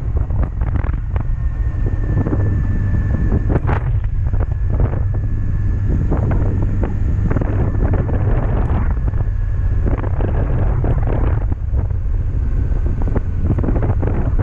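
Wind buffeting the microphone on a moving motorcycle, a rough steady rumble with irregular gusts, over the running engine of a 2007 Honda CB400SF, an inline-four.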